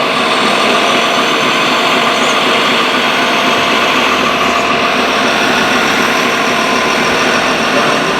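Radio-controlled model excavator's electric motor and hydraulic pump running with a steady, even whine.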